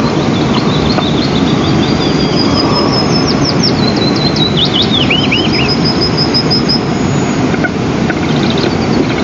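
Steady low rushing noise, like wind on an outdoor nest-camera microphone. Over it, from about a second in to about seven seconds, a small bird sings high chirps, a run of quick falling notes and a rapid series of short high notes.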